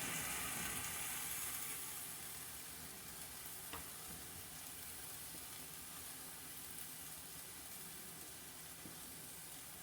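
Food sizzling in a hot pan, the sizzle settling quieter over the first few seconds as the heat is turned down, with a faint click midway.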